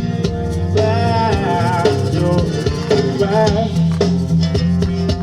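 Live band music: strummed guitar and a shaker over a steady beat, with a wavering melody line between sung phrases.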